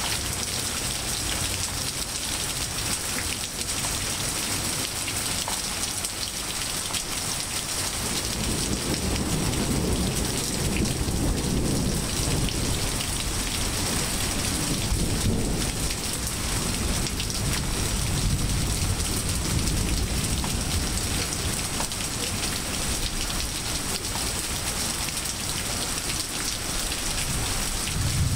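Steady rain falling. About eight seconds in, a low rumble swells up beneath it and goes on, rising and falling.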